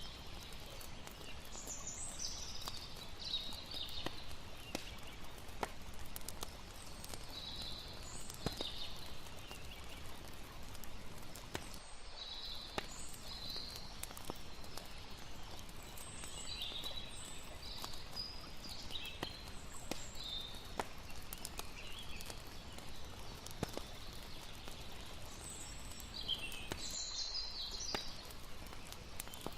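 Layered campfire night ambience: a wood fire crackling with frequent sharp pops, short bursts of high chirping every second or two, over a steady low hiss of water.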